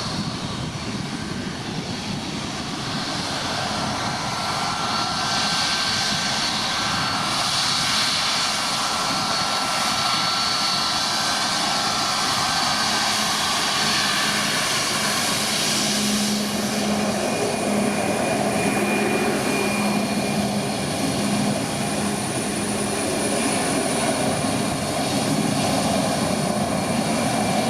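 Boeing 737 MAX 8's CFM LEAP-1B turbofan engines running at taxi power: a steady jet whine and rush that grows a little louder over the first few seconds, its whining tones changing about halfway through as the airliner turns.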